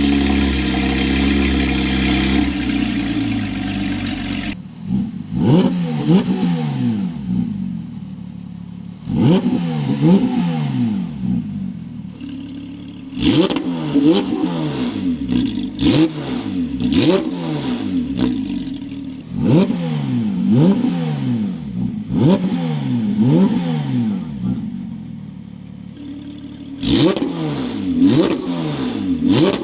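Porsche 992 GT3 RS naturally aspirated flat-six through a full titanium exhaust. It runs steadily for a few seconds, then is blipped again and again in short, sharp revs, each rising quickly and falling back, many of them in quick pairs.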